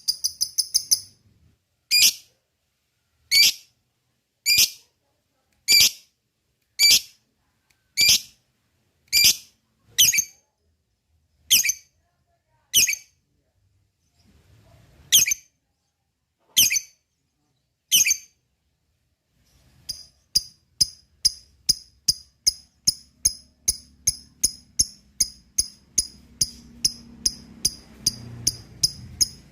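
Lovebird calling: sharp, high single chirps about one a second, then from about twenty seconds in a fast chattering run of short chirps, several a second.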